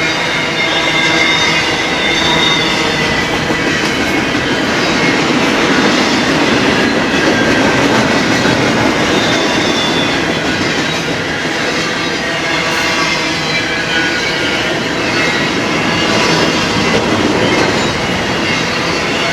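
A BNSF freight train rolling past: a steady rumble of steel wheels on rail, with faint high-pitched wheel squeal coming and going.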